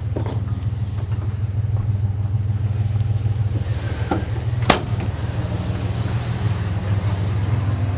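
Truck engine running with a steady low drone. A single sharp click comes a little past halfway.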